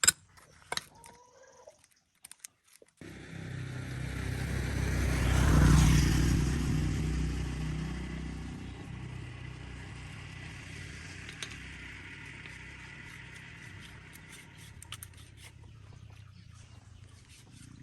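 A motor vehicle's engine that starts about three seconds in, grows louder to a peak, then slowly fades, as a vehicle does going by. A few light clicks come before it.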